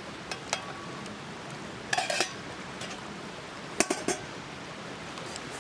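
Small titanium pan and its lid clinking as they are handled: a few light metal knocks, with a brief ringing clink about two seconds in and two more knocks near four seconds.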